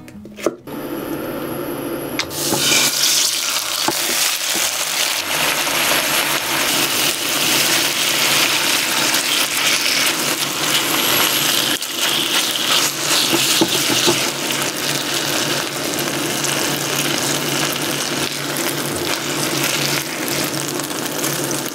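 Soy-and-honey marinated chicken thighs sizzling in a hot frying pan, a steady loud frying hiss that starts just under a second in and grows fuller about two seconds in.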